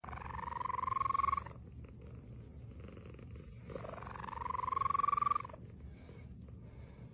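A cat purring steadily, with two drawn-out meows, each about a second and a half long and rising slightly in pitch: one at the start and one about four seconds in.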